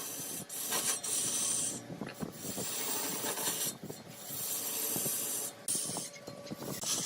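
Turning tool cutting into mahogany spinning on a woodworking lathe: a rasping scrape that comes in passes of a second or two, with brief drops between them.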